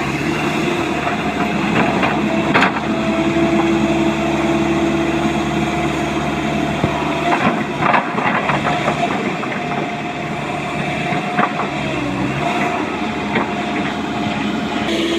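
Heavy diesel excavator engine running steadily as it works, with a few sharp knocks of rock or steel, the loudest about two and a half seconds in and others around eight and eleven seconds.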